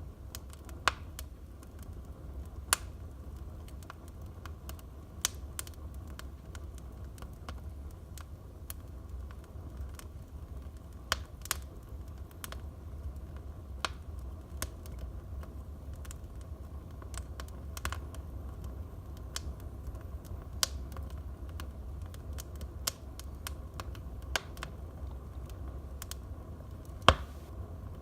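Wood fire burning in a fireplace, crackling and popping at irregular intervals over a low steady rumble, with one louder pop near the end.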